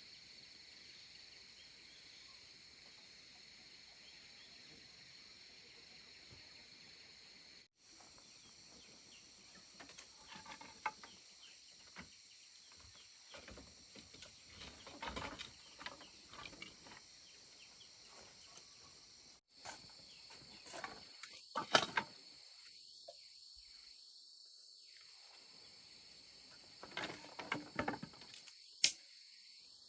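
Steady high-pitched chirring of crickets or other insects in a rural chorus. Scattered soft rustles and light clicks break in now and then, loudest about two-thirds of the way in and near the end.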